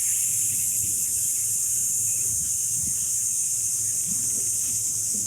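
A man hissing a long, steady "sssss" through the teeth on one slow exhale. This is the lung sound of the Taoist Six Healing Sounds qigong practice, breathed out to release sadness.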